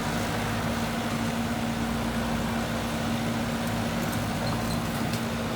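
Engine of heavy earthmoving machinery running steadily at a constant pitch, with no revving.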